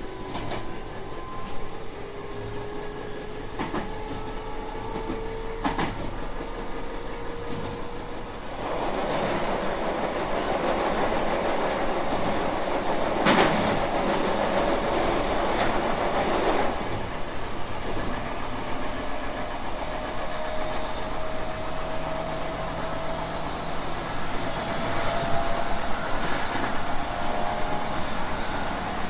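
JR West 221 series electric train running at speed: steady rumble of wheels on rail with a few sharp rail-joint clicks in the first six seconds and a thin motor whine that rises slowly in pitch as it gathers speed. From about eight seconds in, the running noise grows louder for roughly eight seconds before settling again.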